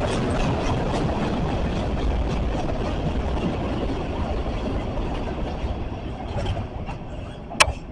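Train rolling past, its wheels clicking over the rail joints in a regular rhythm, the rumble slowly fading away. A single sharp click near the end.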